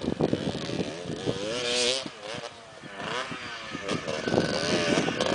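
Motocross motorcycle engines revving on the track, their pitch rising and falling as the bikes accelerate and pass. The engine noise dips about halfway through, then grows louder near the end.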